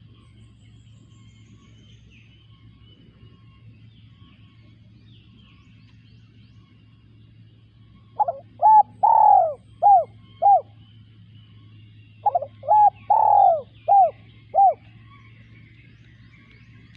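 Spotted dove cooing: two phrases of about five coos each, a couple of seconds apart, the middle coo of each phrase longer and louder. Faint chirps of other birds and a low steady hum run underneath.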